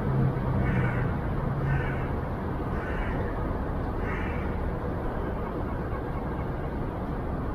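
Steady rumble of outdoor traffic, with a bird giving four short calls about a second apart in the first half.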